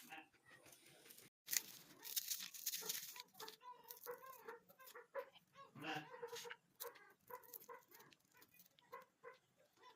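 Short animal calls, repeated many times, mixed with scattered clicks and clatter.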